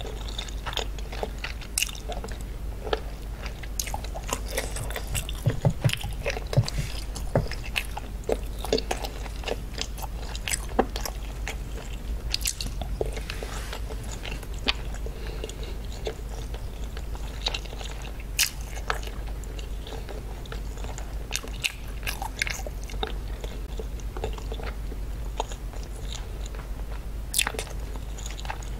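Close-miked chewing of raw scallop: irregular wet clicks and smacks of the mouth, several a second, over a steady low hum.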